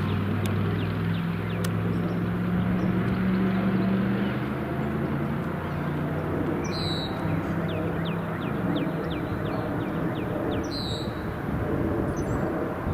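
A low engine hum fades away over several seconds, over steady outdoor noise. Birds chirp: a quick run of short descending notes about halfway through, and a couple of sharper calls.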